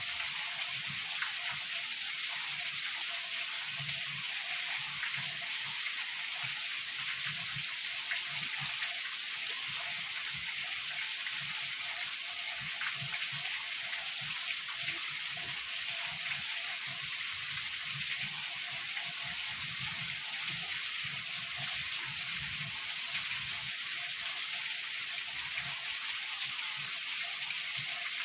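Heavy rain falling steadily, an even hiss of drops without a break.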